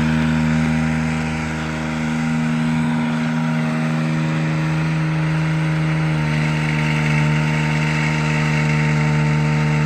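Bucket truck engine running steadily to drive the boom hydraulics: a constant droning hum, its tone shifting slightly about six seconds in.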